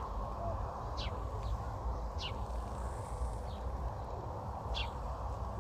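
A songbird calling in short, high, falling chirps roughly once a second, over a steady low outdoor background noise.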